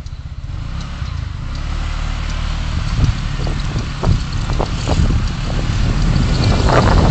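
Car engine and road noise picked up by a dashcam, growing steadily louder as the car gathers speed, with a few short knocks about halfway through.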